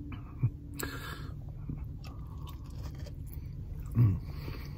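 Close-up chewing of a mouthful of curly fries loaded with cheese sauce and bacon, with small clicks and rustles from the fork and paper box. A short, louder low sound comes about four seconds in.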